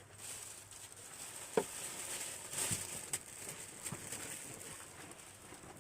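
Rustling, with a few short soft knocks, the clearest about a second and a half in.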